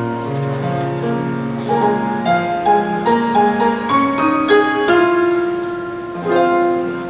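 Instrumental introduction played on piano or keyboard: a stepping melody of steady notes over lower sustained notes.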